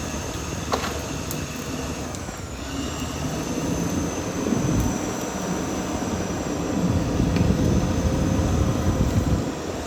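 Caterpillar D6R XL bulldozer working, its diesel engine running with a heavy rumble that swells and eases, loudest about three quarters of the way through.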